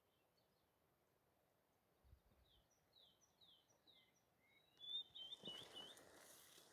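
Faint songbird calls: a run of short, quick falling chirps, then a fast wavering phrase. A rustling noise comes in about five seconds in.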